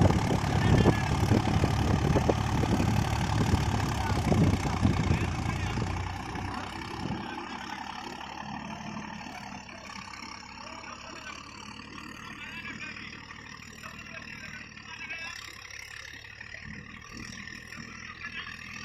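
VST 45 hp tractor engine running: loud for about six seconds, then dropping to a quieter, steady run.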